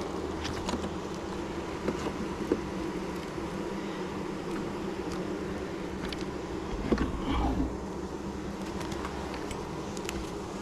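Honeybees droning steadily around an open hive, with scattered small clicks and knocks and a slightly louder knock about seven seconds in.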